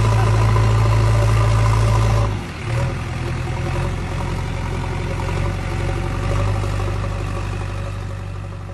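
JCB backhoe loader's diesel engine running under load, then dropping abruptly to a lower, quieter running about two seconds in, and slowly fading.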